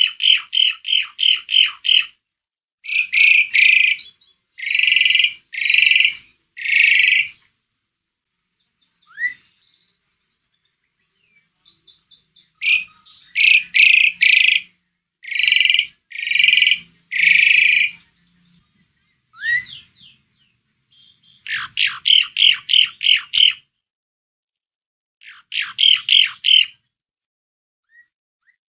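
Jalak suren (Javan pied myna) singing in bouts: quick runs of harsh chattering notes, several a second, alternating with longer rasping notes, with pauses of a few seconds between bouts. A short rising whistle comes twice, in the gaps.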